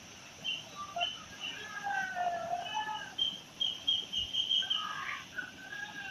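Birds chirping and calling in short pitched notes and glides, with a quick run of repeated high chirps a little past halfway, over a steady rush of river rapids.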